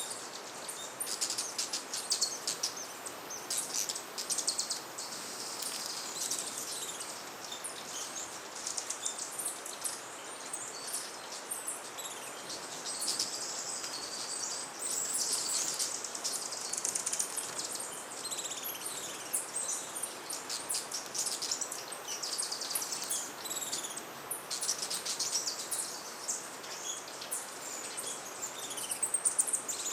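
Many hummingbirds at a busy feeder giving rapid, high-pitched chips and short squeaky twitters throughout, over a steady background hiss.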